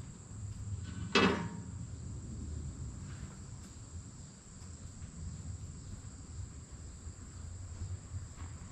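A single sharp clank with a brief ring about a second in, over a steady high drone of insects and a low rumble.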